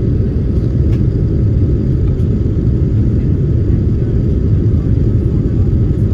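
Steady low rumble of an airliner's engines and the air rushing past, heard from inside the passenger cabin, with a faint steady whine above it.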